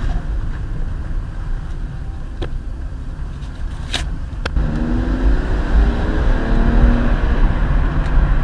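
2006 BMW 325xi's straight-six driving with a steady low road rumble and two sharp clicks. About halfway through, the engine note climbs as the car accelerates, running without misfire on a new ignition coil pack.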